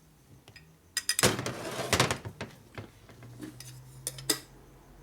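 Metal engine parts clinking and clattering as they are handled and set against the engine case: a busy run of clatters about a second in and one sharp clink near the end. A low steady hum comes in past the middle.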